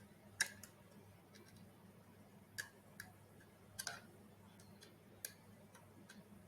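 Irregular light clicks and taps of robot head parts being handled and fitted together by hand, over a faint steady hum.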